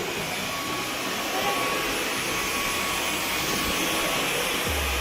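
Dyson V11 Absolute Extra cordless stick vacuum running steadily with an even hiss, and a low rumble joining near the end.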